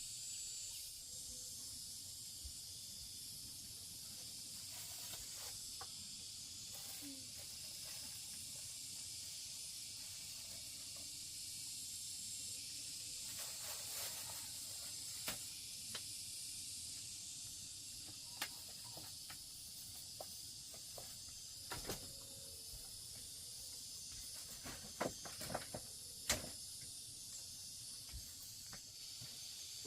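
Steady high-pitched hiss of outdoor background, with scattered sharp clicks and knocks, the loudest about 26 seconds in.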